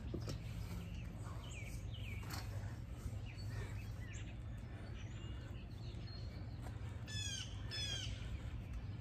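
Songbirds chirping, with short calls scattered throughout and two louder calls that sweep downward in pitch about seven and eight seconds in, over a steady low hum.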